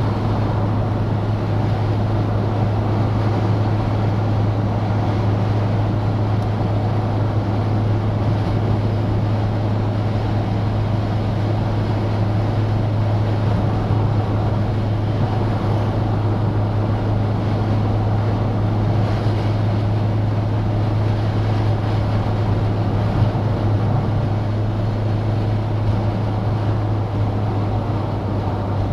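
Citroen DS being driven at a steady speed: a constant low engine drone under a wash of road and wind noise.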